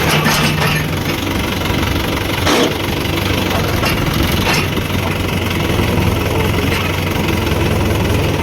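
Diesel engines of a JCB 3DX backhoe loader and a Mahindra tractor running steadily at work, with two short knocks a few seconds in.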